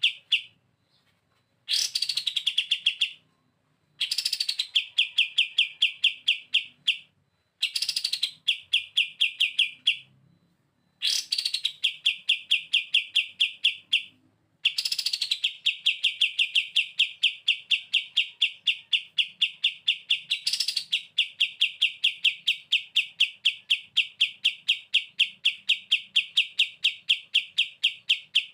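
A kapas tembak songbird sings its rattling 'bren' trill, a rapid train of repeated high notes. It comes first in several short bouts of one to three seconds with brief pauses, each opening on a higher note, then as one long unbroken trill of about twelve seconds.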